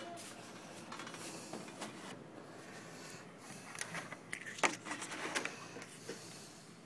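Clicks and light knocks of things being handled in a kitchen, over a steady low hiss, with a cluster of sharper knocks in the second half.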